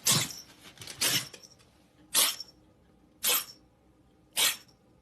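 A pet making a run of short, sharp breathy bursts, five of them about a second apart.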